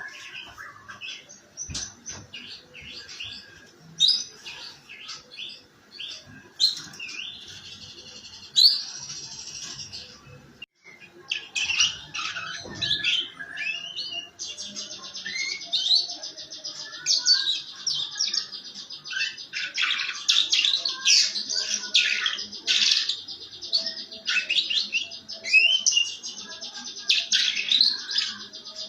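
Domestic canary singing a rough, fast 'ngeriwik' song: rapid chirps and rolling trills, broken briefly about eleven seconds in, then almost unbroken trilling.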